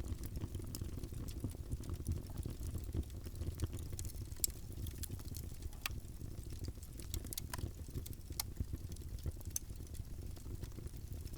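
Wood fire in a fireplace crackling: irregular sharp pops and snaps scattered over a steady low rumble of the flames.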